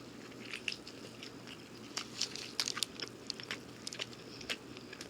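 A person biting into and chewing a hand-breaded chicken sandwich on waffle bread with maple butter sauce: faint, irregular short clicks of mouth and food.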